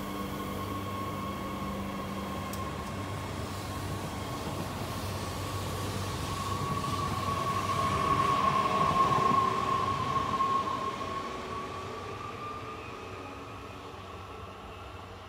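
A train passing by, growing louder to a peak about eight to ten seconds in and then fading, with a high whine that is strongest as it passes.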